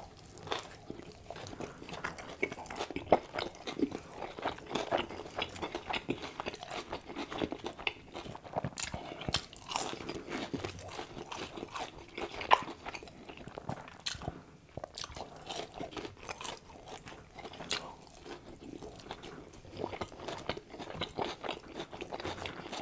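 Close-miked chewing and crunching of breaded fried fast food, with frequent irregular sharp crunches over steady chewing.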